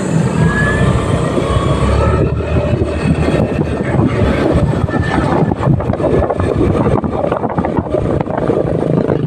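Motorcycle riding along: engine and road noise under a heavy rumble of wind buffeting the microphone.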